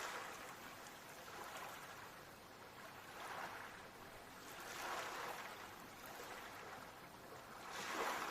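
Ocean waves washing in on the shore, the surf rising and falling in three soft swells, the last one near the end the loudest.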